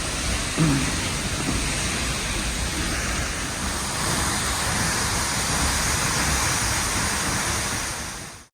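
Steady rushing roar of Seljalandsfoss waterfall, cutting off abruptly at the very end.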